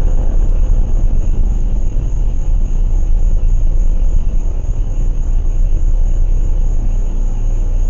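Steady low rumble with a faint, steady high-pitched tone above it.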